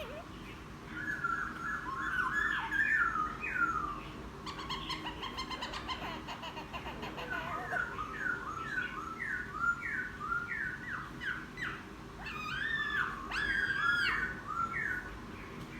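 Wild-caught laughingthrush singing a varied, chattering song of gliding whistled notes in phrases, with a quick run of repeated notes in the middle and louder phrases near the end. A low steady hum sits underneath.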